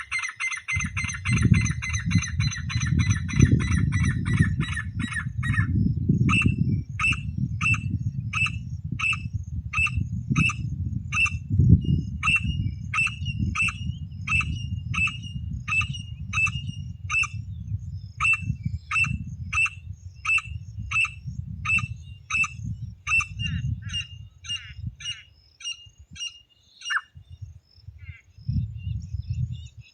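Teetar (francolin) calling: a fast rattling trill for the first few seconds, then a long run of sharp repeated calls at about two a second that stops a few seconds before the end, over a steady low rumble.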